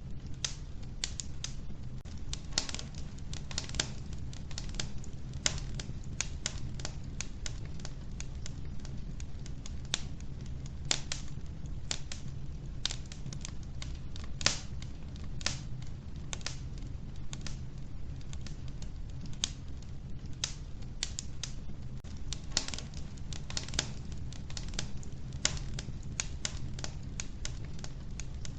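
Wood fire burning in a wood-burning stove: logs crackling with irregular sharp pops and snaps, several a second, over a steady low rumble.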